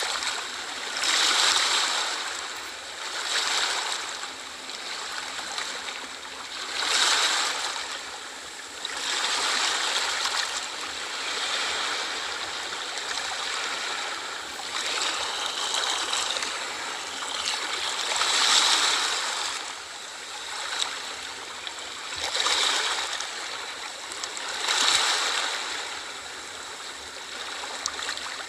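Small sea waves washing in and drawing back, a steady hiss of water that swells and fades every few seconds.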